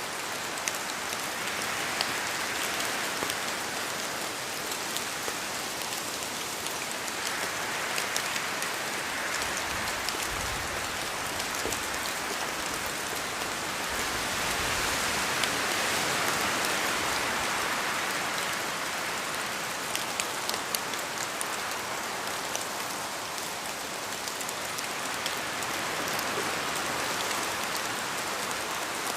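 Steady rain falling in a forest, with many drops ticking and pattering on leaves. Wind rushes through the trees, swelling and easing every several seconds.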